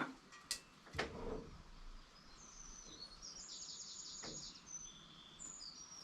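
A songbird singing high, thin phrases with a rapid trill in the middle. Three sharp knocks in the first second and a fainter one later are the loudest sounds.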